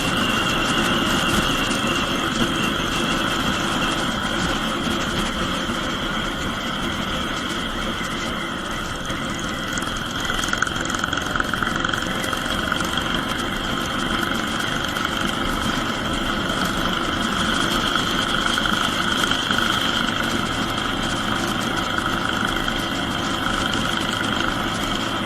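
Royal Enfield Bullet 350's single-cylinder engine running steadily at highway cruise through a short-bottle silencer, its exhaust thumping, with a steady high-pitched whine over it.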